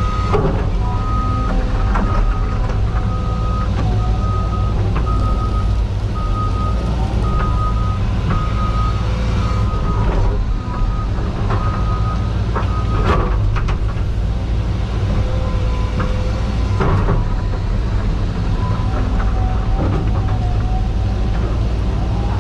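CAT 320 GC excavator's diesel engine running steadily under load, with a backup alarm beeping about once a second that stops about halfway through. A few sharp clanks of machine work come through the engine sound.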